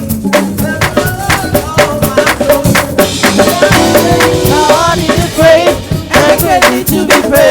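Live gospel praise band playing: a drum kit keeping a steady groove under held notes, with a voice singing bending runs from about halfway through.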